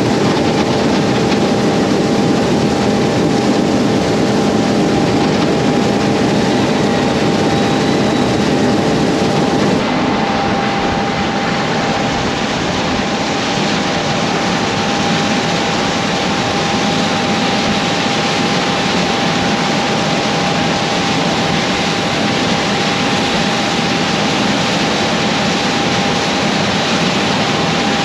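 Heavy diesel engine running steadily, with a thin steady whine over it. The engine note changes abruptly about ten seconds in.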